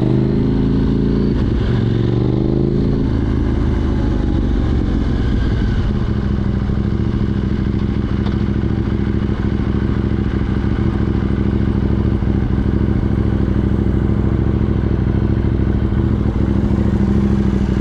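KTM 790 Duke's parallel-twin engine running through an Arrow Race Tech exhaust with a de-cat pipe, loud. Its note shifts in pitch over the first few seconds, then settles into a steady, even note.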